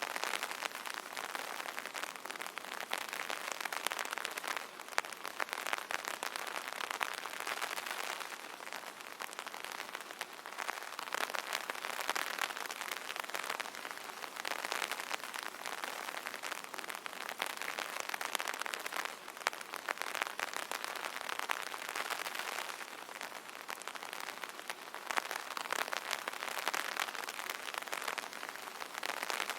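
Steady rain falling on an umbrella canopy: a dense mass of separate drop taps that grows and eases in strength every few seconds.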